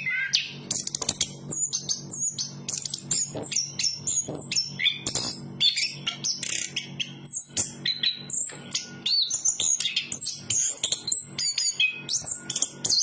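Chestnut-capped thrush singing a fast, continuous, varied song of whistles, trills and chirps, over a steady low hum.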